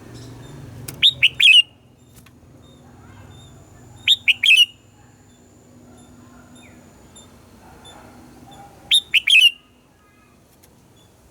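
Red-whiskered bulbul singing three short, loud phrases, each a quick run of several clear notes.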